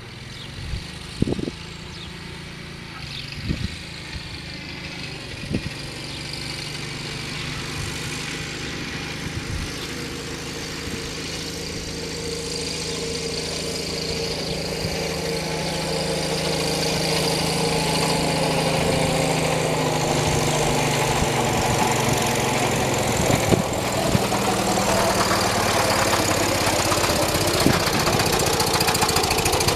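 1978 John Deere 208 garden tractor's single-cylinder engine running at full throttle under load in fourth gear, growing steadily louder as the tractor comes closer. A few sharp clicks sound in the first seconds.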